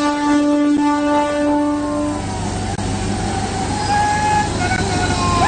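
A train horn held on one long steady note that cuts off about two seconds in, followed by the steady rumble of the train moving along the track.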